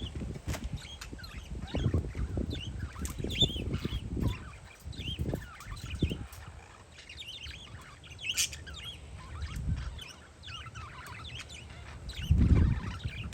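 Parakeets chirping, many short high chirps overlapping throughout. Wind buffets the microphone in gusts, loudest near the end.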